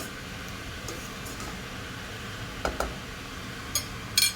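A few short clicks and knocks of kitchen utensils and sauce bottles against the pan of fried rice, over a steady background hiss.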